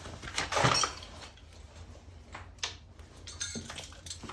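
Metal scraping and clinking as a toilet closet bolt is worked around in the slot of a cast iron toilet flange: a loud scraping rattle about half a second in, then a few light clicks.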